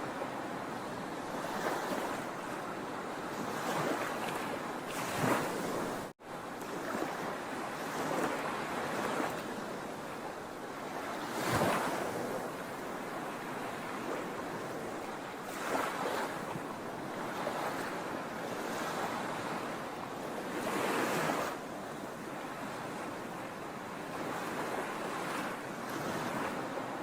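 Sea waves breaking on a shore: a steady wash of surf with several louder waves rising and falling away every few seconds. The sound cuts out for an instant about six seconds in.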